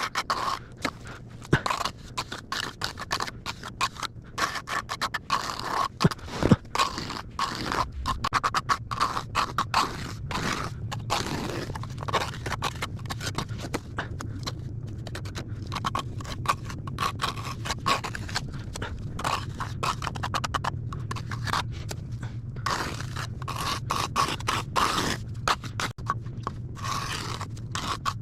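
Plastering trowel scraping and spreading cement mortar in quick, irregular strokes, with a couple of sharper knocks in the first several seconds.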